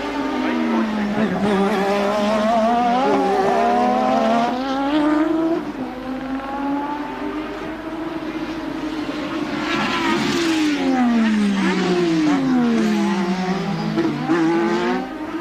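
1988 Formula One cars racing, their engines screaming at high revs. The pitch drops sharply as they brake and shift down, then climbs again as they accelerate through the gears, with more than one engine heard at once. It falls twice, about a second in and again around eleven to thirteen seconds in, and rises in between and near the end.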